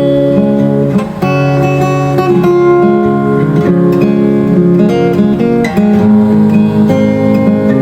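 Acoustic guitar played as a fingerstyle solo arrangement, plucked notes and chords ringing on over moving bass notes.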